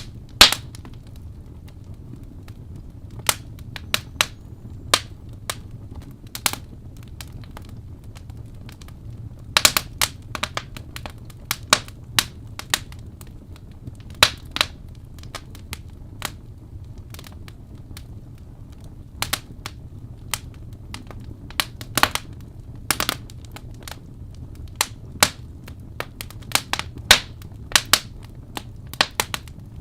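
Wood fire crackling: irregular sharp pops and snaps, sometimes in quick clusters, over a steady low rumble.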